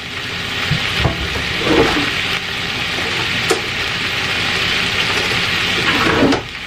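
Meat and vegetables sizzling steadily in the inner pot of an electric multicooker on its sauté setting. The pot is running very hot, hot enough to brown the food dark.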